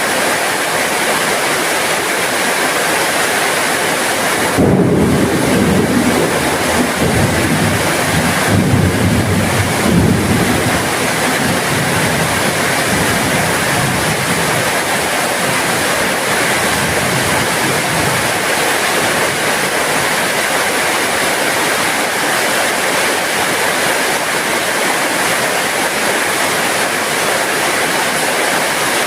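Heavy rain falling steadily, with a low rumble of thunder starting suddenly about five seconds in, swelling again a few seconds later and dying away after about six seconds.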